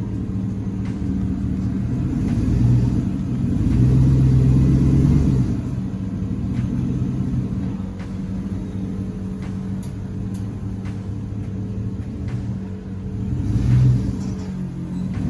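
Vehicle engine running with a steady low rumble, swelling louder about three to five seconds in and again near the end.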